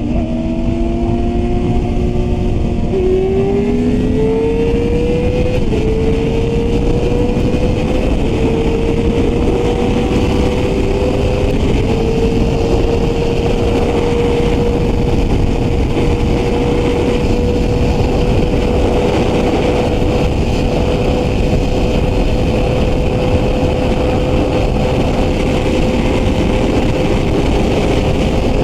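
Yamaha R6's inline-four engine revving hard. Its pitch climbs in several steps over the first eight seconds, then holds steady at high revs, with a heavy steady rush of wind noise underneath.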